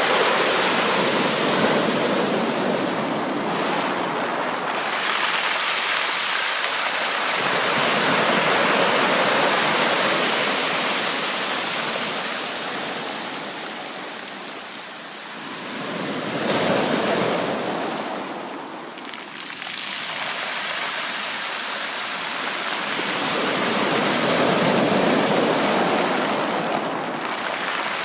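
Sea waves breaking on a beach, the surf swelling and falling back in slow surges every several seconds.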